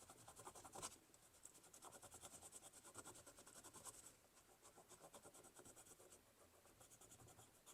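Faint, rapid scratching strokes on a grimy 50p coin, scraping off dirt and tarnish to uncover its date.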